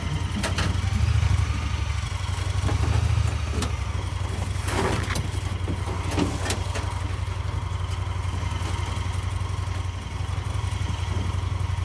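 A vehicle engine running steadily with a low hum, and a few brief rattles or knocks about four to six and a half seconds in.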